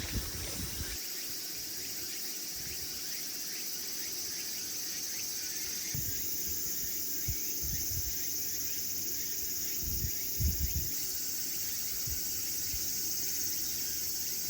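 Insects calling steadily, a high continuous drone, with a few brief low thumps about ten seconds in.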